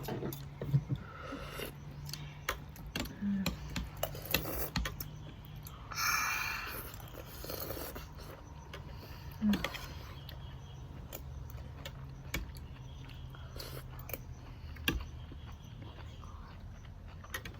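Spoons clinking and scraping on plates during a meal, a scatter of sharp irregular clicks over a steady low hum.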